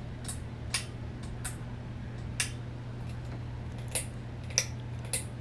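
Light pull-chain switch on a Hunter ceiling fan being pulled again and again, about seven sharp clicks at uneven intervals, over a steady low hum.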